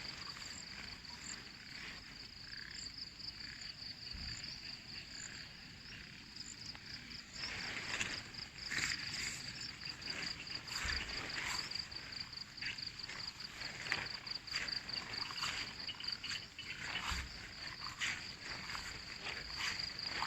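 Crickets chirring steadily in a high, rapidly pulsing drone. Scattered crackling clicks come in more thickly from a few seconds in, with a few dull low thumps.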